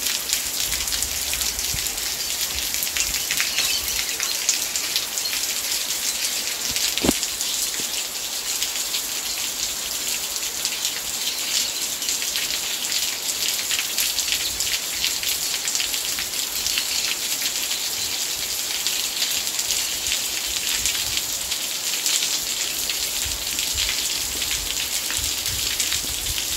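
Steady light rain falling, a continuous patter of many fine drops at an even level.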